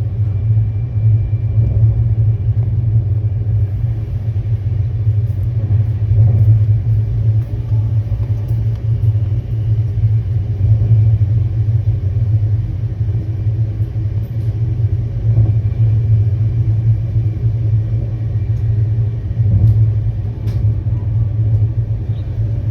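Express passenger train running, a steady low rumble of the coach on the track with no breaks.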